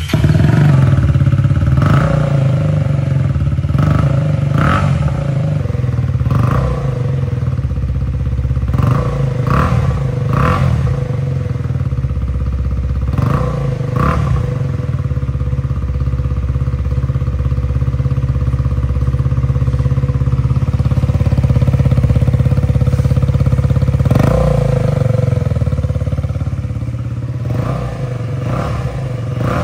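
KTM Duke 250 single-cylinder engine idling, with a run of short throttle blips in the first half and a couple more near the end.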